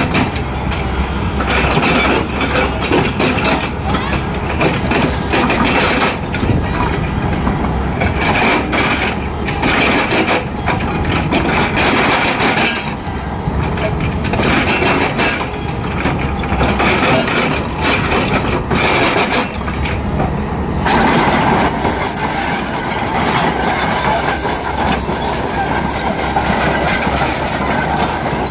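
Excavator running and working, with repeated metal clanks and a high-pitched squeal that gets stronger and higher in the last third.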